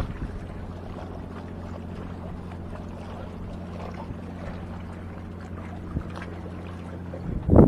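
A steady low engine hum with a constant pitch. A loud, brief rush of noise comes just before the end.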